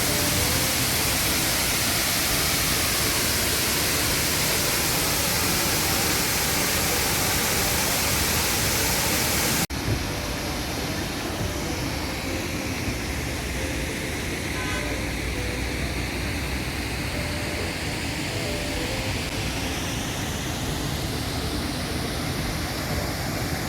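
Steady rush of falling water from a waterfall. About ten seconds in it cuts abruptly to a slightly quieter stretch of the same rushing water.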